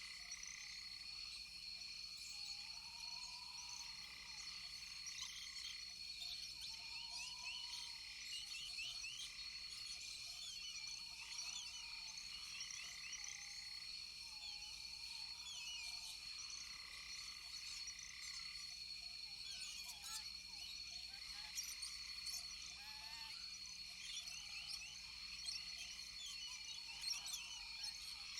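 Rainforest frog chorus: a dense, steady mass of high chirps and trills, over which a lower arching call repeats about every two seconds.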